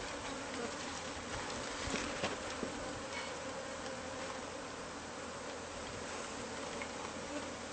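A honeybee colony, disturbed by its comb being cut out of a wall, buzzing as a dense, steady hum of many bees in flight.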